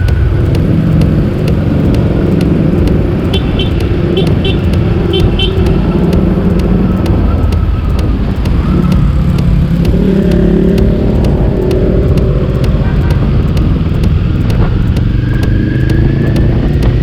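Honda CB400 inline-four motorcycle engine running under way, its pitch shifting up and down as the revs change. Wind noise on the microphone runs throughout, and a few short high chirps come in pairs about three to five seconds in.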